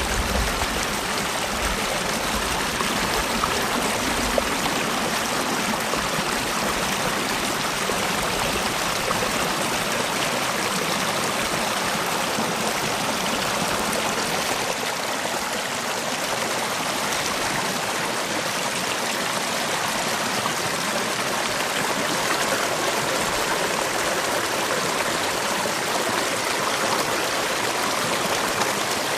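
Mountain gorge stream flowing, a steady, even rush of water.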